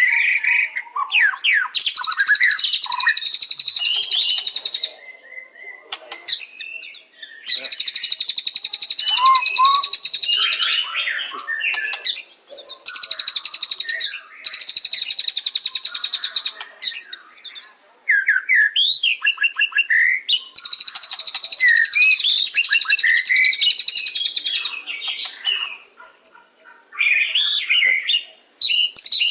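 White-rumped shama singing: short whistled notes and slurred glides broken every few seconds by long, dense, rapid rattling trills several seconds long, repeated about six times.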